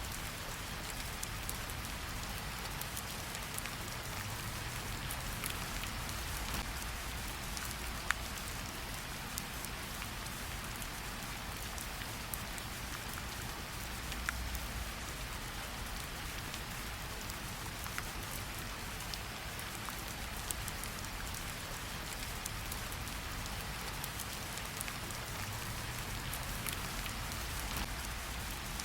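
Steady rain falling on the ground and on water, with a few sharper single drops standing out now and then.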